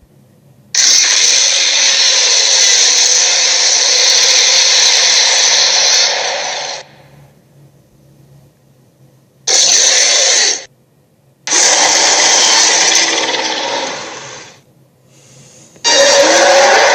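Dragon roar sound effects: four loud, harsh roars, each starting suddenly. The first lasts about six seconds and trails off, then comes a short one-second roar, a three-second roar that fades, and another begins near the end.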